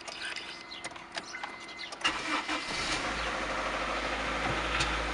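Honda Civic EF wagon's four-cylinder engine being started: a high electronic beep sounds in short pulses, then about two seconds in the starter cranks briefly, the engine catches, and it settles into a steady idle.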